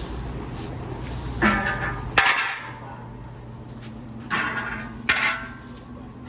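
Four sharp metallic clanks, each with a short ring, over a steady low hum that drops off abruptly at the second clank.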